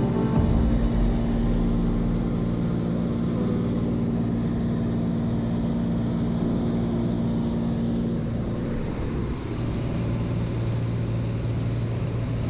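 An engine running steadily, its note changing about nine seconds in.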